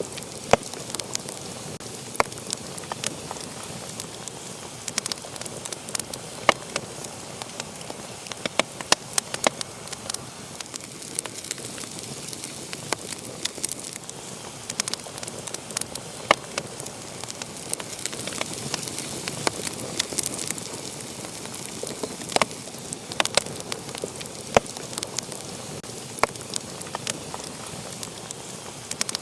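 Wood fire burning in a fireplace, with a steady hiss and frequent sharp, irregular crackles and pops.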